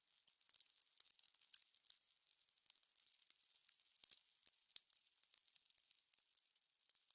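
Fire crackling: irregular sharp pops and snaps, several a second, over a faint steady hiss.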